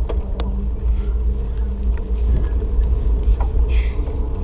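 Wind rumbling on the microphone during an e-bike ride, over the steady hum of the Rad Mini e-bike's electric hub motor, with a few light clicks and a short hiss near the end.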